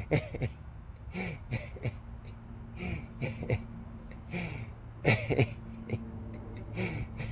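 A man clearing his throat and making short grunting noises, a dozen or so brief sounds, with a steady low hum coming in about two seconds in.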